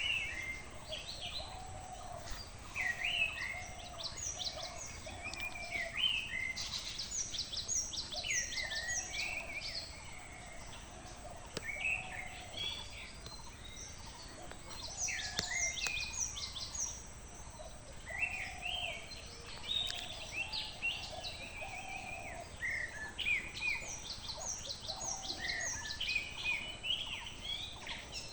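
Several birds calling at once: bursts of quick, sweeping high-pitched chirps, with a lower call repeated in runs of several notes beneath them.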